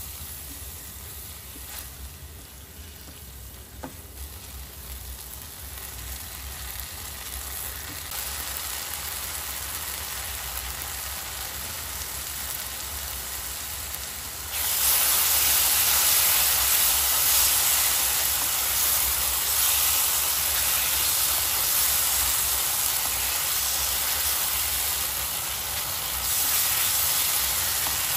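Onion, capsicum and tomato sauce frying in a hot nonstick pan, sizzling as it is stirred with a spatula. The sizzle builds slowly, then jumps sharply louder about halfway through as red chili sauce goes into the pan, and rises again near the end.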